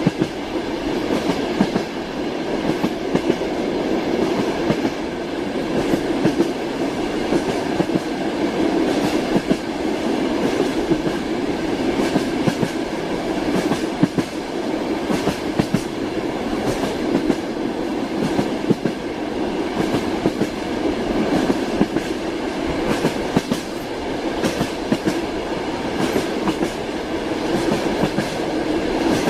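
Train wheels clattering over rail joints with a continuous rumble, as heard from inside a moving railway carriage.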